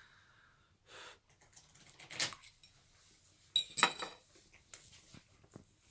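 Cutlery clinking and scraping against a plate during eating: a few short sharp clinks, the loudest cluster about four seconds in.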